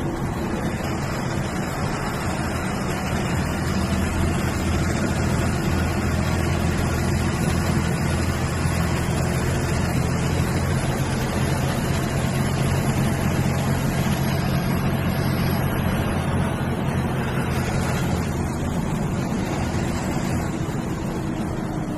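MSRTC bus's diesel engine running under way, a steady low drone over road noise that eases off a little near the end.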